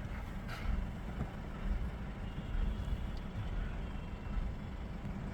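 Low, steady rumble of a moving vehicle, road and engine noise with no distinct events.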